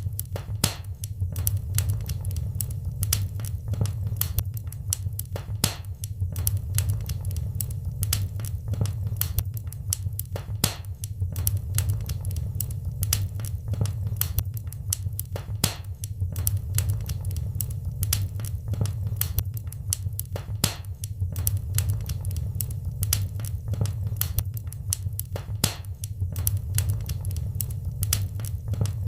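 Fireplace fire crackling, with many sharp, irregular pops over a low, steady rumble.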